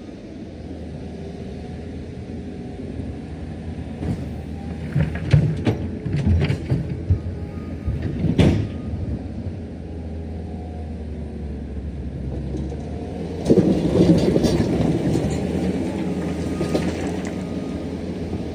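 Diesel earthmoving machinery running steadily. A run of knocks and clanks comes from about four to eight and a half seconds in, and the machine gets louder and busier near the end, as if working under load.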